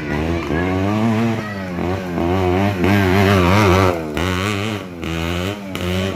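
Motocross bike engines revving up and down over and over, loudest about three seconds in.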